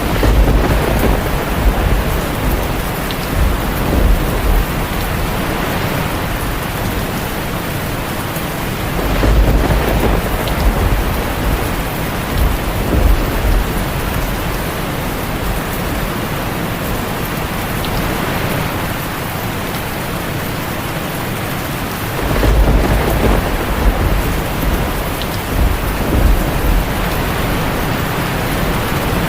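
Heavy rain drumming steadily on a tin roof, with three long rolls of thunder: one at the start, one about nine seconds in and one about twenty-two seconds in.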